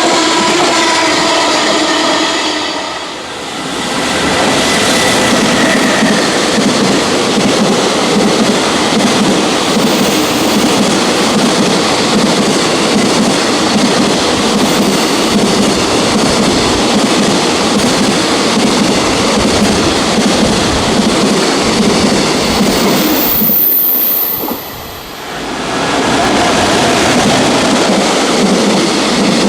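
A JR Freight container train running past: continuous loud noise of wagon wheels on the rails, with clickety-clack. A locomotive's electric whine is heard in the first few seconds. The noise dips briefly about three seconds in and again near twenty-four seconds.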